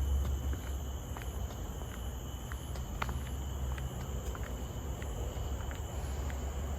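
Insects, crickets or similar, droning in the forest as several steady high-pitched tones, with scattered short ticks and a low rumble underneath.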